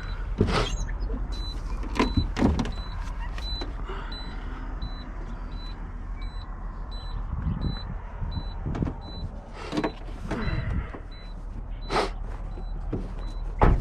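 A semi truck's high-pitched warning chime beeping about twice a second, stopping about three quarters of the way through, over the truck's low idle rumble. Several knocks and thumps land among the beeps, the loudest near the end, from handling the truck's doors or climbing out of the cab.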